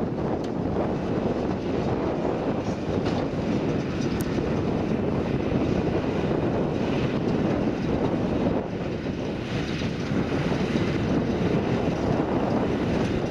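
Massey Ferguson tractor pulling a McHale baler, running steadily through the field, with wind buffeting the microphone.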